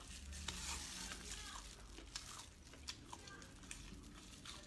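Faint chewing and crunching of pig ear, with scattered soft clicks.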